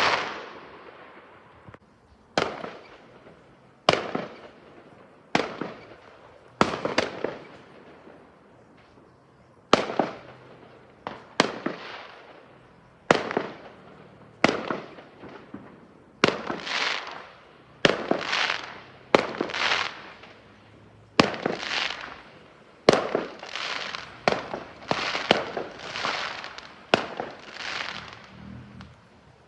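Fireworks going off: a string of about twenty sharp bangs, roughly one every second or so, each dying away in a short echo. From about halfway through, the bangs have fuller, longer tails and some come in close pairs.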